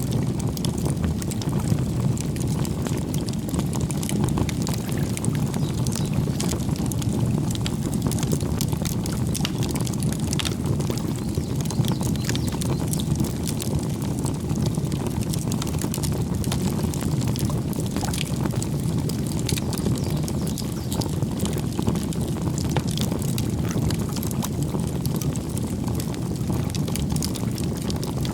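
Campfire burning: a steady low rush of flame with frequent sharp crackles and pops of burning wood.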